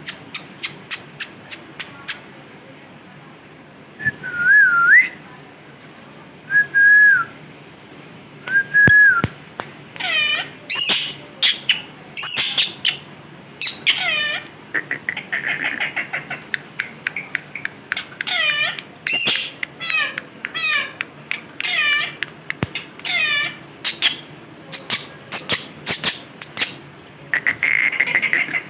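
Parrot whistling and calling: after a quick run of clicks, three short wavering whistles, then a long series of repeated calls that sweep down in pitch, with a couple of hissing bursts.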